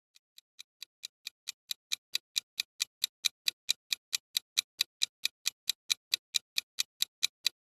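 Clock ticking steadily at about four and a half ticks a second, fading in over the first couple of seconds.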